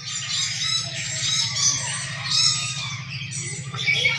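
Siamang gibbons calling: a dense run of overlapping high-pitched shrieks and squawks, over a steady low hum.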